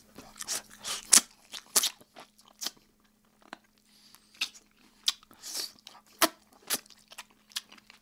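Close-miked chewing and biting of an oven-roasted chicken drumstick: deliberate, exaggerated lip-smacking and crunchy bites at irregular intervals, loudest about a second in.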